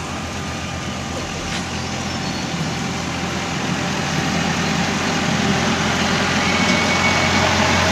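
Small amusement-park train's engine running steadily, growing gradually louder.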